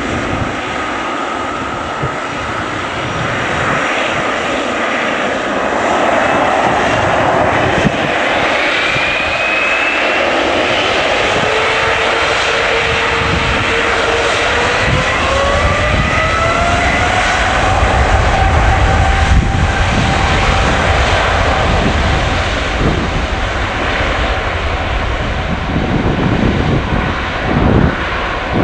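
Boeing 777 jet engines running loud: a steady rumble with whining tones that climb in pitch about halfway through, as the engines spool up, and a deeper rumble that builds after that.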